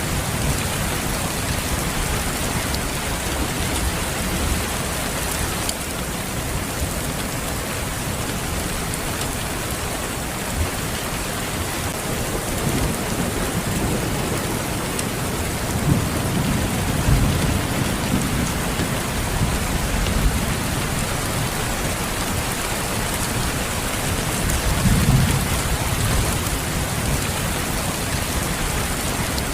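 Steady heavy rain falling, with low rolls of distant thunder rumbling through the middle and again near the end.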